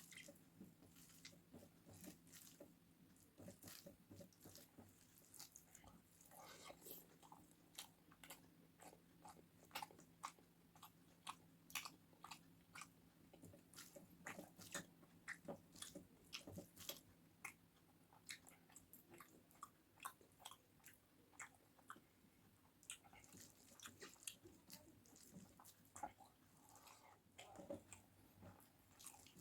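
Close-miked mukbang eating: a person biting and chewing a rice meal with crunchy fried aloo bhujia, with many short crisp crunches and mouth clicks, several a second. A faint steady hum lies underneath and fades out about two-thirds of the way through.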